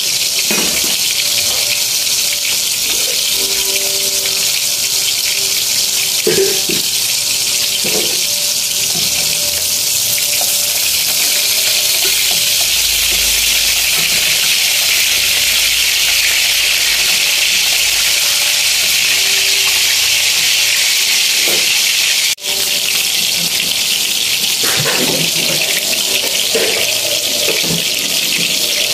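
Pancit noodles and vegetables sizzling and steaming in a large aluminium wok, a steady hiss. A metal spatula scrapes and knocks against the wok a few times, more often near the end.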